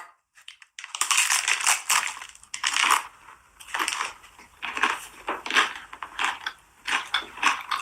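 A person chewing and crunching food close to the microphone, with irregular crisp crunches several times a second, starting about a second in.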